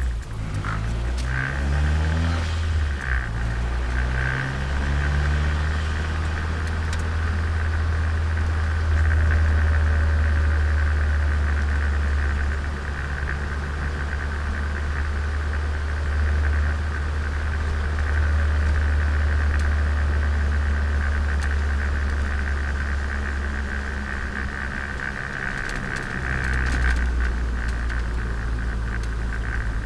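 Turbocharged Nissan Micra engine and exhaust running while the car is driven, heard from on board. The engine note rises and falls a few times in the first few seconds, then settles into a steady low drone.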